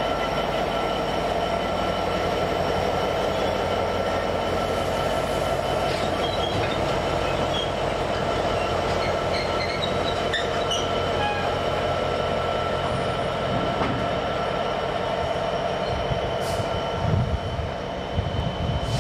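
A train running through the station with a steady sound and a constant whine, with brief high squeaks from the wheels in the middle. Low buffeting comes in near the end.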